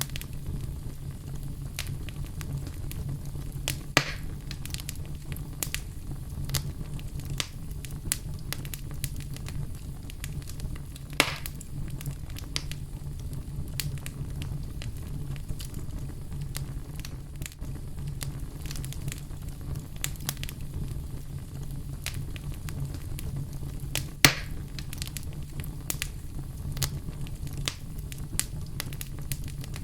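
Wood fire burning in a fireplace: a steady low rumble of the flames with frequent irregular crackles and a few louder pops, about 4, 11 and 24 seconds in.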